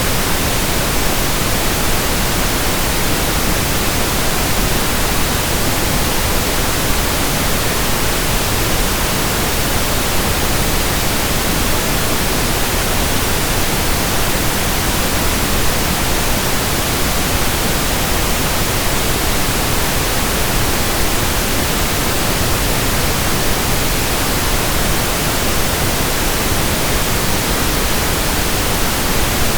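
Steady pink noise: an even, unchanging hiss across the whole range of pitch, with no breaks or events.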